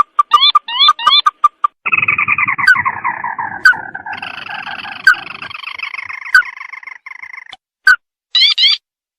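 Crake calls from a bird-lure recording. A long descending chattering trill runs from about two seconds in until near the end, punctuated by single sharp notes about once a second. A quick burst of rising notes follows near the end.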